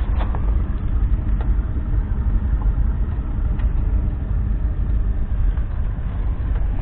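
McCormick X7.690 tractor's 6.7-litre six-cylinder diesel engine running steadily.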